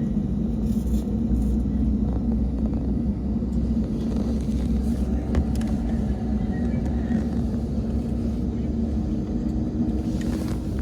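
Steady low rumble of an Airbus A220's passenger cabin on the ground, with a few faint clicks.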